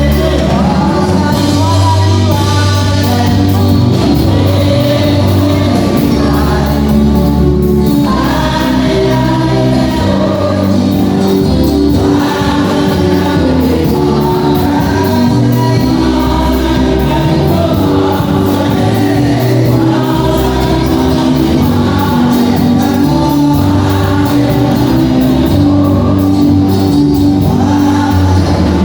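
Gospel music with choir singing over a steady band accompaniment with strong bass.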